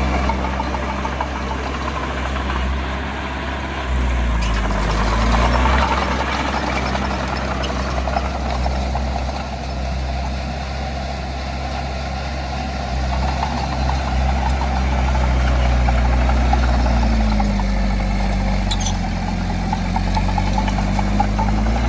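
Heavy diesel earthmoving machine running with a deep steady rumble. Its engine note rises under load about four seconds in, and again near the end.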